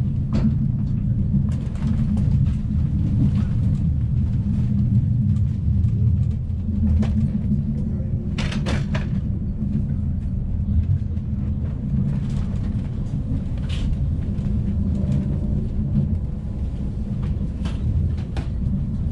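ICE 1 high-speed train rolling on the track: a steady low rumble with scattered clicks and knocks, and a brief louder rattle about eight to nine seconds in.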